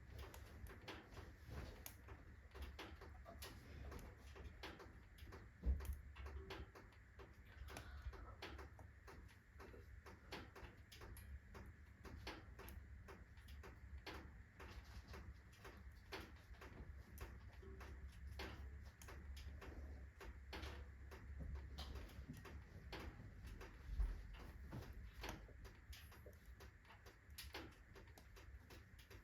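Wood fire of alder, birch and oak logs crackling faintly in a fireplace, with irregular small snaps and two louder pops, one about six seconds in and one near the end.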